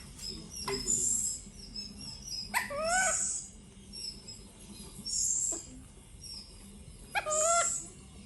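Pet monkey calling out twice, each a short pitched screech that rises then falls, about two and a half seconds in and again near the end, with fainter hissy squeaks between them; the monkey is agitated and raging.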